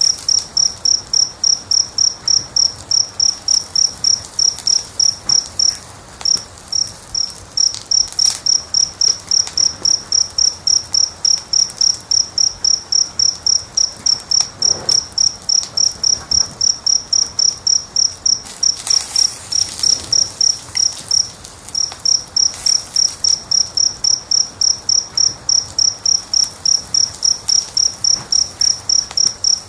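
A cricket chirping steadily, a high pulse about three times a second, pausing briefly twice. Faint crackles of a wood fire sound underneath.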